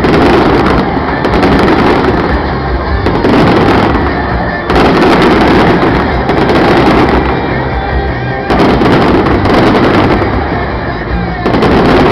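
Fireworks display going off loudly in a continuous barrage, with repeated sharp bangs every second or two over a steady rumble.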